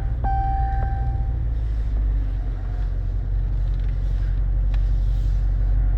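Low, steady rumble of a car heard from inside the cabin. A brief steady tone sounds about a quarter second in and lasts about a second.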